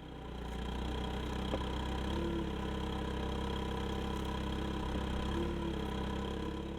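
Volkswagen LPG engine of a Linde H20T forklift running steadily at idle, with a brief higher tone about two seconds in and again about five and a half seconds in.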